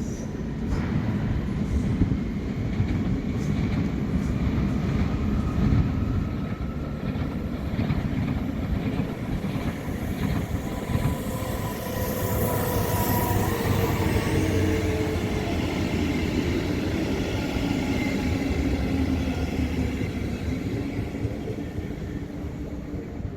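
A train running on the track with a steady rumble of wheels and rails. Whining tones drift in pitch through the middle of the pass.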